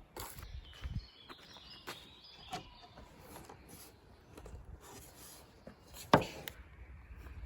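Footsteps and rustling on a forest path, with faint bird chirps early on and one sharp knock about six seconds in.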